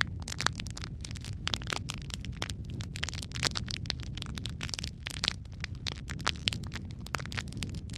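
Wood fire burning in a fireplace, with irregular sharp crackles and pops several times a second over a steady low rumble of the flames.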